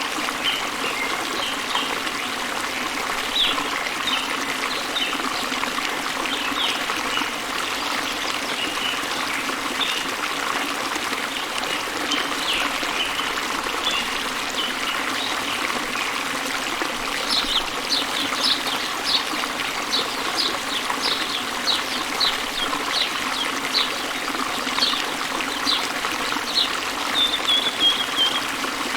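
Steady rush of water falling and flowing, with small birds chirping high above it. About halfway through, a bird starts a quick, evenly paced series of sharp chirps that ends in a short trill near the end.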